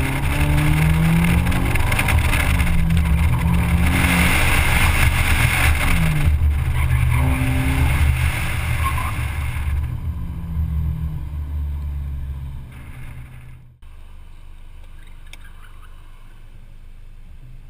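Car engine revving hard as the car is driven through an autocross course, its pitch climbing and dropping with throttle and gear changes, heard from inside the car. About three-quarters through it cuts off suddenly to a much quieter car engine idling steadily.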